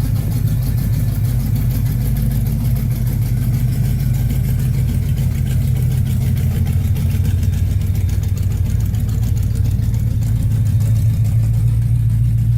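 1981 Chevrolet Caprice's engine idling steadily through a straight-piped exhaust with no muffler, a loud, even low rumble.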